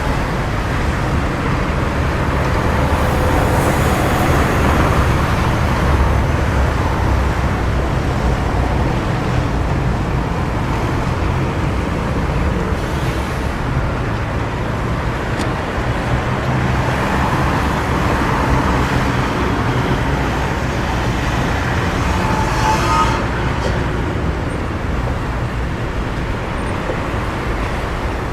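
Continuous road traffic noise: a steady wash of passing vehicles and tyres, swelling and easing slightly, with a brief higher tone near the end.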